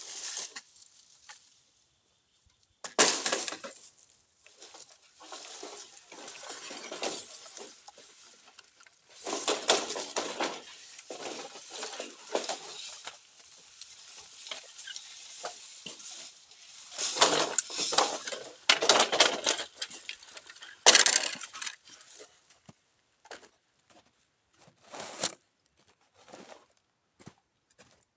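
Bamboo being cut by hand with a saw and machete: irregular rasping and rustling in stops and starts, with scattered knocks and short clicks.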